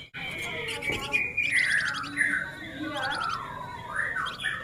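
Male flamboyan songbird singing a continuous, busy chattering song: rapid clicking trills mixed with sliding whistled notes that fall and rise in pitch.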